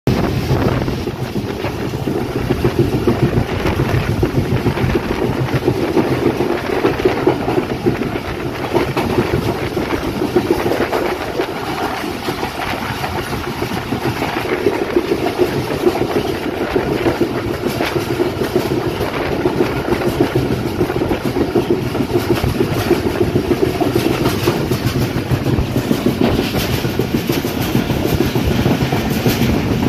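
Train running along the track, heard from on board: a steady rumble of wheels on rail.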